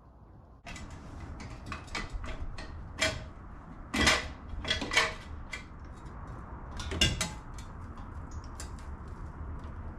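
Metal tools and parts clinking and clanking as they are handled, a string of sharp knocks with louder clanks about three, four, five and seven seconds in.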